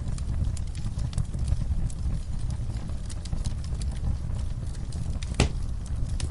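Wood fire crackling in a fireplace: a steady low rumble of burning with frequent small sharp pops, and one loud pop a little after five seconds in.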